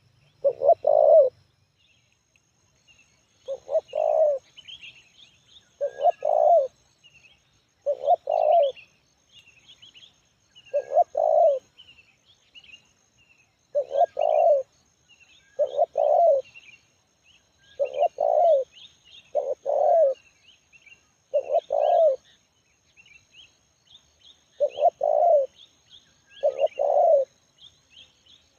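Spotted dove (tekukur) cooing its repeated phrase, about one coo phrase every two seconds, with small birds chirping faintly behind.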